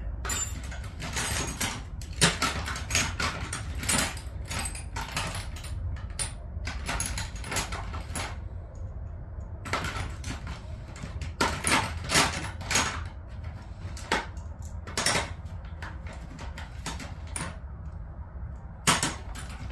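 Metal hand tools and wrenches clinking and clattering as they are rummaged through, in many short knocks with a brief pause partway through.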